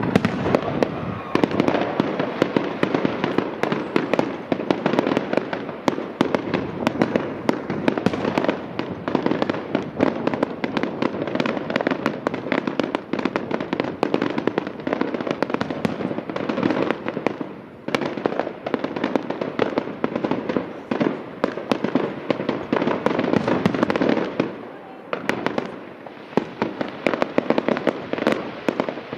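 A fireworks display going off continuously: dense rapid bangs and crackling, with short lulls about two-thirds of the way through and again near the end.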